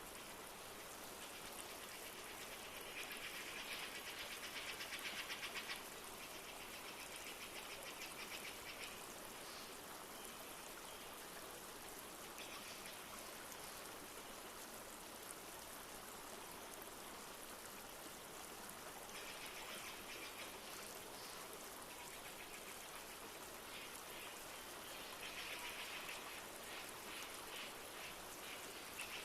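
Steady rush of a flowing river with light rain. Over it, rapid trilling animal calls come in several bursts of a few seconds each, loudest about three seconds in and again near the end.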